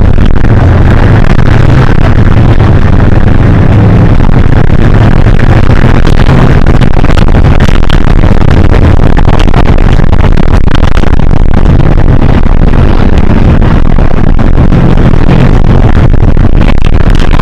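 Hino HS8JRVL-UTF city bus running, a loud steady low engine drone with road noise and small shifts in engine pitch.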